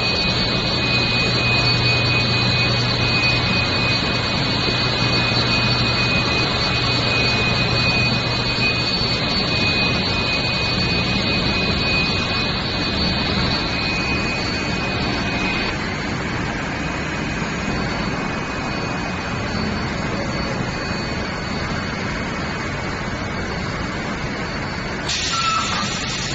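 Steel bar induction heat treatment line running: steady industrial machine noise with a high, steady whine and a low hum, the whine dropping out about halfway through. A short louder burst of noise comes near the end.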